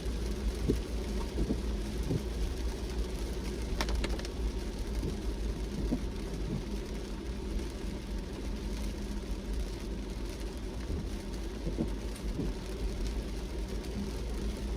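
A car driving in rain: a steady low road rumble, with raindrops tapping on the car now and then and one sharper tick about four seconds in.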